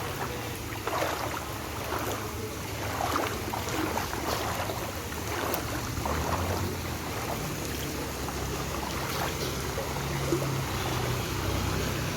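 A motor vehicle moving through floodwater: a steady low engine hum that grows stronger in the second half, with irregular water splashing and sloshing over it.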